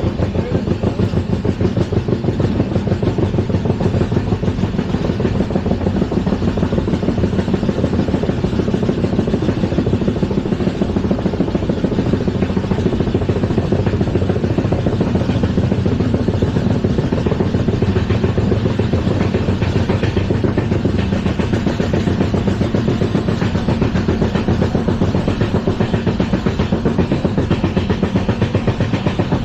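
LHB passenger coach running along the track: a steady, loud rumble with a dense, rapid rattle.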